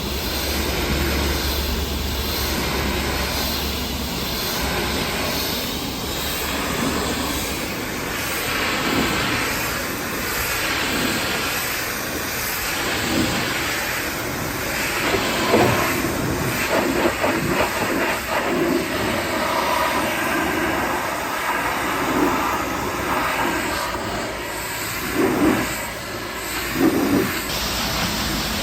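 Pressure washer spraying water, a steady hiss and splash, with brief louder spurts in the second half as the jet hits surfaces.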